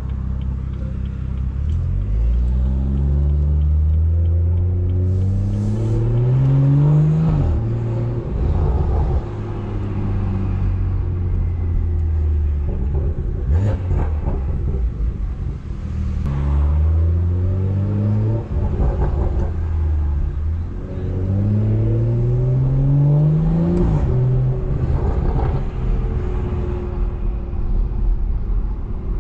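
BMW 340i's turbocharged straight-six, tuned with a big turbo and a straight-piped exhaust, pulling hard twice under acceleration. Its pitch climbs steadily for several seconds and drops off sharply, once about seven seconds in and again near the end. In between it runs steadily at a lower pitch.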